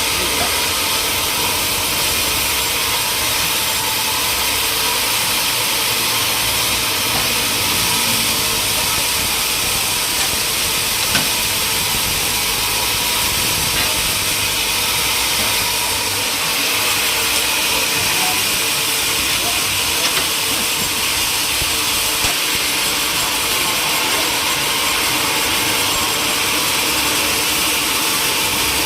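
Machinery running steadily with a strong, even hiss, with a few faint clicks.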